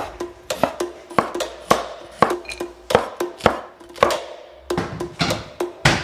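Kitchen knife chopping meat and chili peppers on a wooden cutting board: a series of sharp knocks at uneven spacing, about two to three a second.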